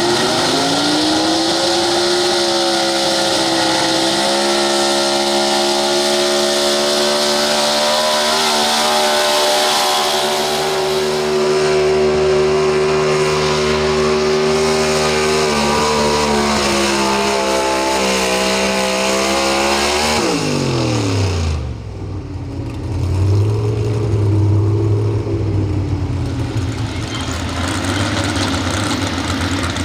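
Pro stock 4x4 pulling truck's engine revving up and held at high revs under full load for about twenty seconds, as on a sled pull. It then drops sharply as the throttle is let off and keeps running at lower, uneven revs.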